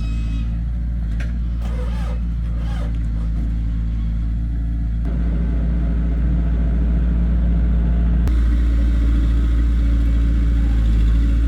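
Heavy diesel engine of construction machinery running steadily, revving up a little about five seconds in and holding at the higher speed.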